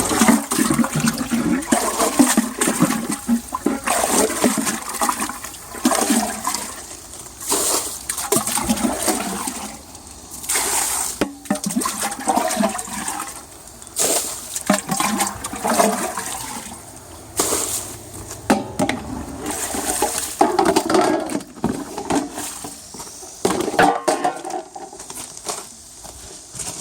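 Stream water gushing and splashing into an earthenware jar as it fills, coming in uneven surges.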